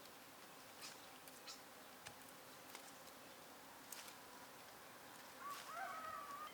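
Near-silent outdoor ambience with scattered faint ticks; about five and a half seconds in, a rooster begins a faint crow.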